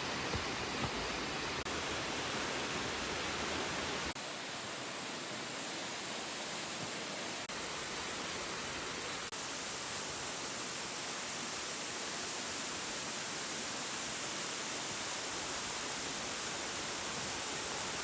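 Waterfall rushing: a steady, even noise of falling water, dropping a little in level about four seconds in.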